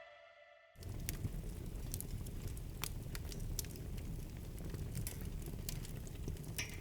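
Lego 12V model train running on the layout's track: a steady low rumble with scattered clicks, starting about a second in and cutting off suddenly near the end.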